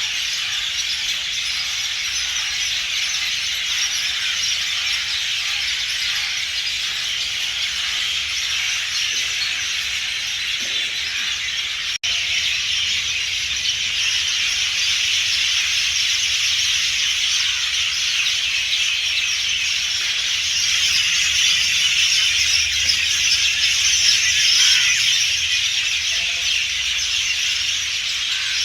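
A dense, continuous high-pitched chorus of wild creatures, as an unbroken shrill hiss rather than separate calls. It cuts out for an instant about twelve seconds in and swells a little after about twenty seconds.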